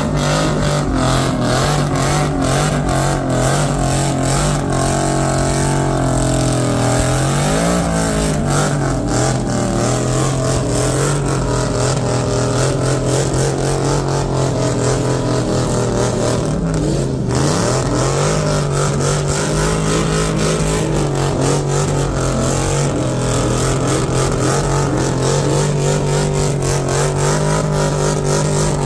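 A car engine held at steady high revs, as in a burnout, with the revs dropping and climbing back twice, about seven and seventeen seconds in.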